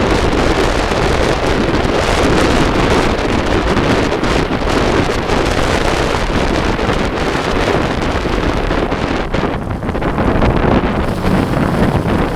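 Heavy wind buffeting the microphone on a moving motorcycle, with a motorcycle engine running underneath, loud and steady throughout.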